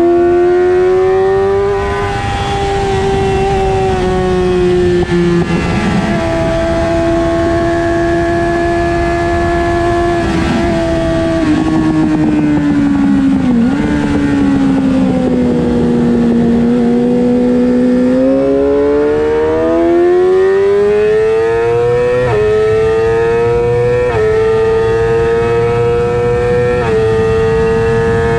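Suzuki GSX-R600's inline four-cylinder engine at racing revs, with wind rushing over the fairing. The engine note holds high, sags lower in the middle as the bike is slowed in second gear, then climbs hard with three quick upshifts near the end, each a sudden drop in pitch.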